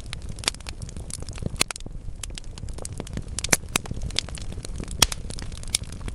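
Wood fire in a fireplace crackling: a dense run of sharp pops and snaps from burning logs, a few louder ones about three and a half and five seconds in, over a steady low rumble of the flames.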